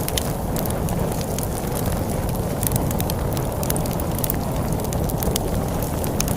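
Wood fire crackling, with frequent irregular snaps and pops over a steady low rumble of storm wind.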